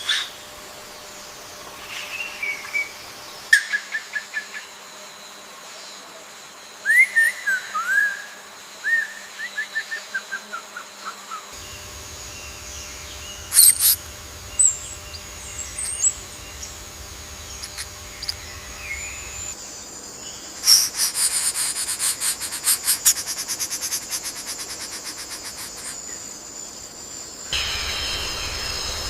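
Birds calling in forest ambience: short whistled chirps and a falling run of notes, then a fast, even rattling trill with a steady high insect-like tone near the end. The background changes abruptly several times, as between spliced clips.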